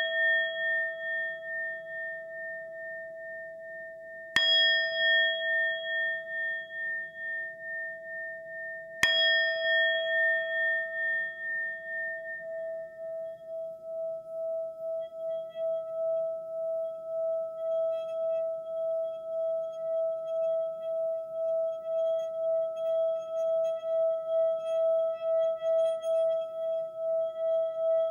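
A ringing bell-like tone, struck twice, about four and nine seconds in. Each strike rings out clearly and fades slowly. From about twelve seconds on, a single tone keeps sounding with a steady pulsing.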